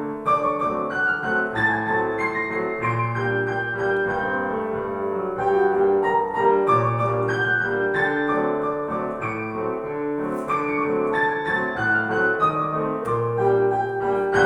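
Piano duet playing a lyrical piece, ending on a loud chord near the end.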